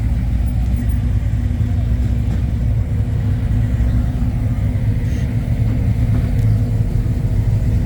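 A car engine running close by at a steady idle, a deep, even sound with no clear revs.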